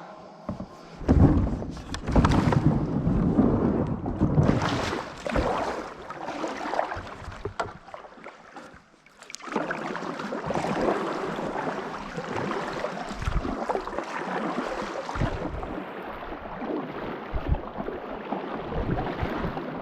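A kayak setting off and being paddled: paddle strokes splashing and swishing in the water, with some irregular knocks and thumps in the first few seconds, then a steadier wash of paddling.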